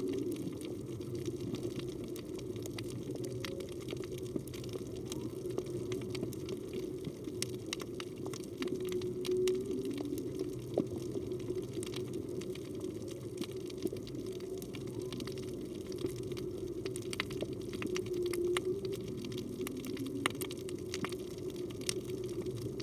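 Underwater sound of the reef: a steady low rush of water with scattered sharp clicks. Through it comes faint humpback whale song, with short moaning tones and low glides a few seconds apart, around the middle and again later.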